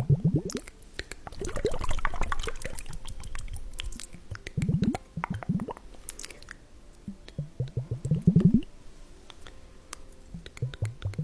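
Liquid squelching and dripping in small ampoules. It comes as about five short runs of quick gurgles, each rising in pitch, with light clicks in between.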